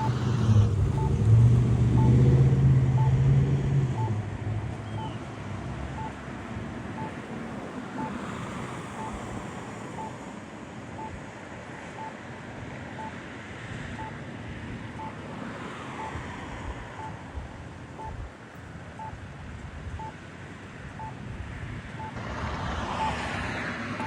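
Road traffic: a vehicle's engine passes close by in the first few seconds, then steady traffic noise with wind on the microphone and further cars swelling past. A faint short pip repeats about once a second throughout.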